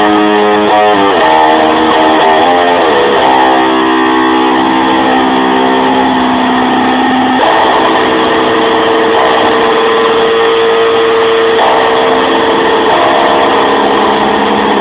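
Strong wind howling, with whistling tones that slide up and down in pitch, then hold and jump to new pitches over a steady rush.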